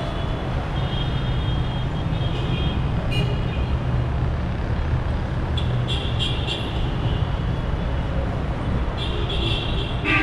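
Busy city street traffic: a steady low rumble of car, bus and motorbike engines passing, with short clusters of high-pitched tones three times.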